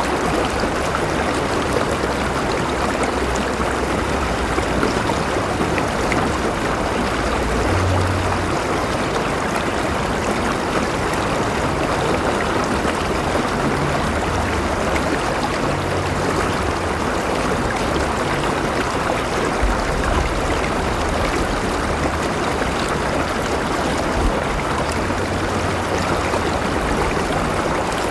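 River water flowing steadily over stones, a continuous rushing and gurgling with a faint low rumble underneath.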